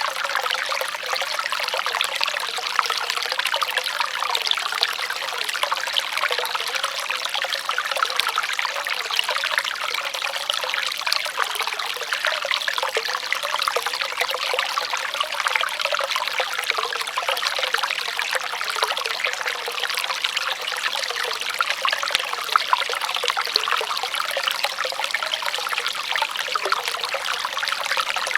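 Running water trickling and splashing steadily, a continuous bubbling rush with no pauses.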